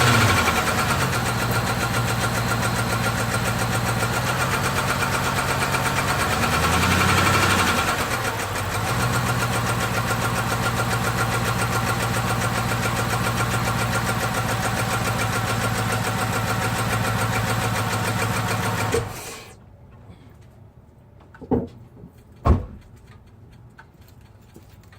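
Chrysler 6.1L SRT8 HEMI V8 idling rough with some ticking, the sign of a random cylinder misfire. Its revs rise and fall once about seven seconds in, and it shuts off abruptly about nineteen seconds in, followed by two sharp knocks.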